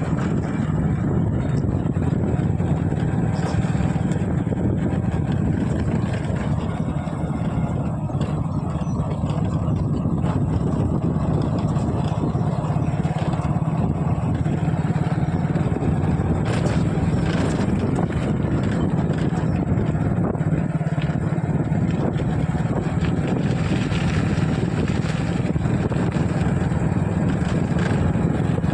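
Steady low rumble of wind buffeting the microphone while riding, unbroken throughout.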